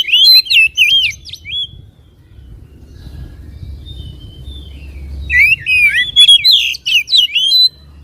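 Oriental magpie-robin (kacer) singing: loud, fast runs of varied whistled notes sliding up and down. They break off for a few seconds of softer song and start again about five and a half seconds in.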